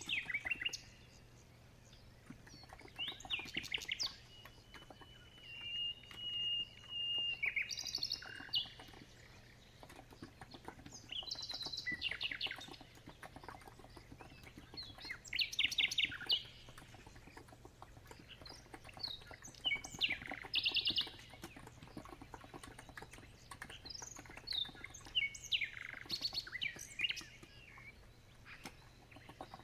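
Birds chirping and singing in short repeated phrases, with one held whistle about six seconds in, over soft steady typing on a COX Empress electro-capacitive keyboard.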